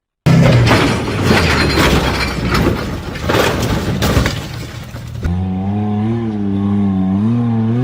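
Road vehicle crash: a sudden, loud stretch of crunching, breaking and shattering impacts lasting about five seconds. It then cuts abruptly to a steady low drone whose pitch wavers slightly.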